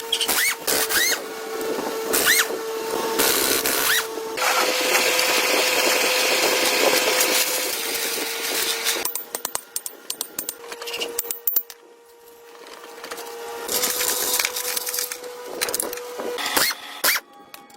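A handheld power tool running in spells on metal, with a steady motor whine over a scraping, rasping noise and scattered clicks. It goes quieter for a few seconds in the middle, then picks up again.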